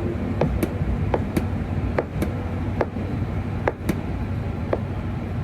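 Steady low machine rumble with sharp clicks or taps about twice a second over it.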